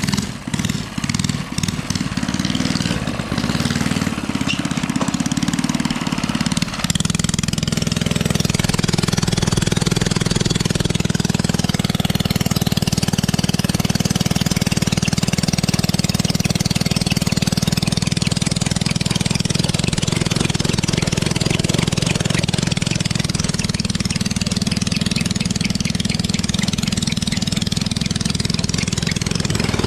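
Mini bike engine running under throttle during a burnout attempt: uneven and choppy for the first several seconds, then held at a steady speed for the rest.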